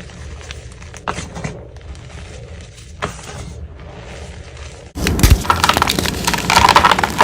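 Blocks of dyed gym chalk being crushed, with scattered crisp crunches and crumbling. About five seconds in, the sound cuts abruptly to a louder, denser crunching.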